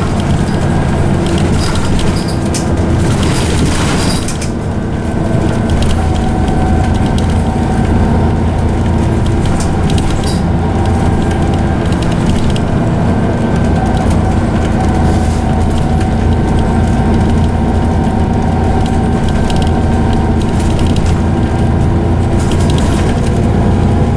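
Inside a Scania OmniCity bus under way: the diesel engine runs steadily with a loud whine from its ZF automatic gearbox, and the body gives occasional short rattles.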